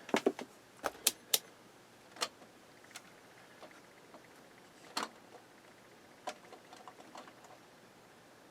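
Sharp clicks and small taps from hands working the amplifier's power switch and meter probes during a continuity check: a quick cluster in the first second and a half, then single clicks a little after two seconds and at five seconds, and a few faint ones near the end.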